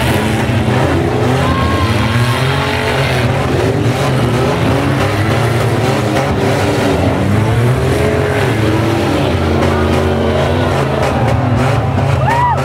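Several race van and truck engines running hard together, their pitch rising and falling over and over as they accelerate and lift, over a steady low drone.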